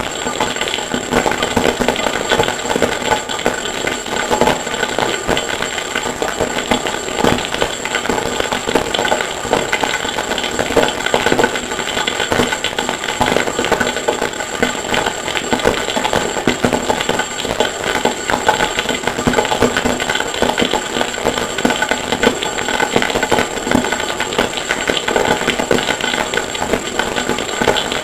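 Harsh noise music built from sampled forge recordings: a dense, unbroken wall of rapid crackling and clattering noise with a steady high-pitched whine over it.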